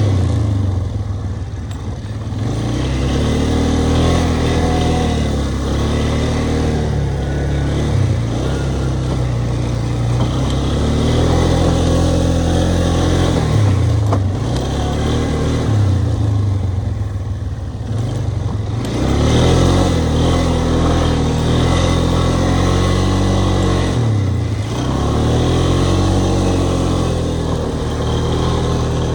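ATV engine running under way, its pitch falling and climbing again several times as the rider eases off and accelerates.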